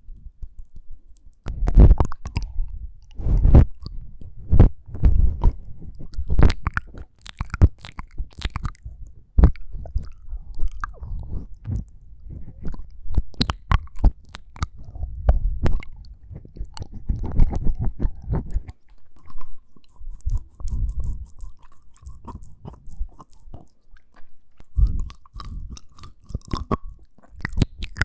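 Close-miked ASMR mouth sounds: an irregular run of clicks and smacks with low thumps, thinning out briefly about two thirds of the way through.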